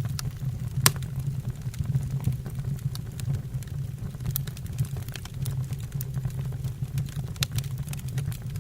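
Wood fire in a fireplace crackling, with irregular sharp pops over a steady low rumble; the loudest pop comes about a second in.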